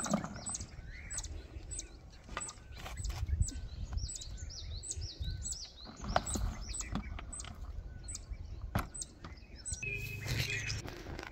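Small birds chirping over and over, a short falling chirp a few times a second, over the scrapes and soft knocks of a spade digging old cow-dung manure and tipping it into a plastic bucket.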